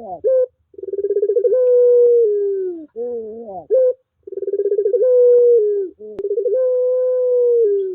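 A puter pelung dove, a domestic dove bred for its long coo, cooing twice. Each coo opens with a fast stuttering rattle, swells into a long held note that drops in pitch at the end, and is followed by a short wavering phrase.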